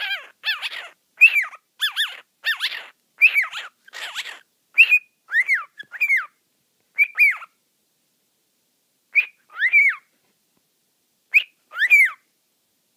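Pet cockatiel whistling and chirping in short arching notes, a quick run of them followed by a few spaced-out pairs.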